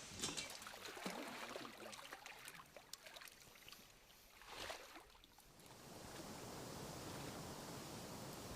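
Water splashing and sloshing, with scattered light knocks, over the first five seconds; from about six seconds on, an even steady hiss.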